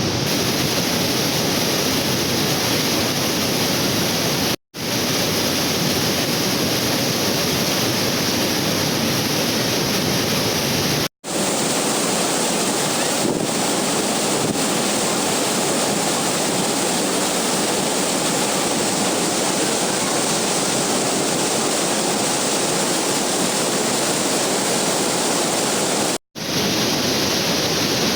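Waterfall water rushing in a steady, loud roar, broken by three split-second dropouts to silence.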